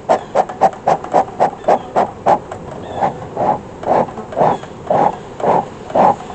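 Beekeeper's smoker bellows being pumped in quick, rhythmic puffs to get the smoker going, about three or four puffs a second at first, slowing to about two a second.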